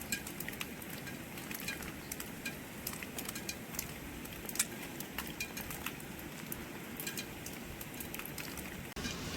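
Steady rain hiss with many scattered sharp drips and taps.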